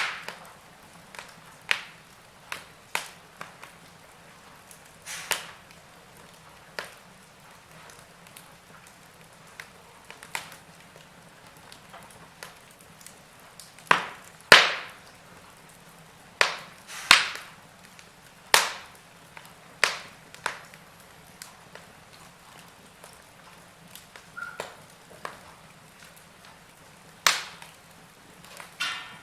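Wood fire in a fireplace crackling, with sharp irregular pops and snaps over a faint hiss; the loudest pops come about halfway through.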